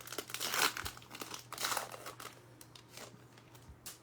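Crinkling of a foil trading-card pack wrapper being torn open and handled, in two rustling swells with a few small clicks.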